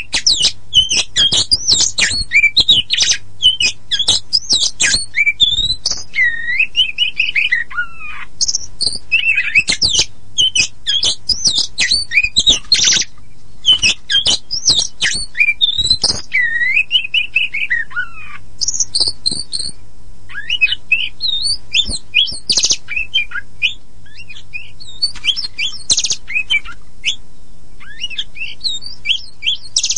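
Oriental magpie-robin (kacer poci) singing a long, varied song of loud whistled notes, slurred rising and falling phrases and quick rattling chatter, with hardly a break.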